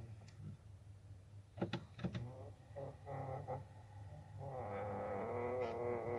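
Volkswagen Tiguan climate-control air flaps squeaking as the climate control is switched: a few clicks of the controls about one and a half to two seconds in, short squeaks, then a long wavering squeak from about four and a half seconds on, over a low steady hum.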